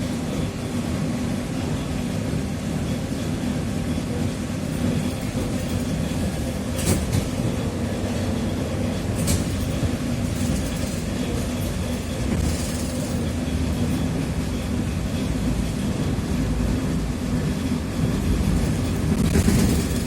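Steady low running noise heard inside a TrolZa-5275.05 Optima trolleybus on the move, from its DK-213A traction motor and Ishimbay rear axle, with two sharp clicks about seven and nine seconds in.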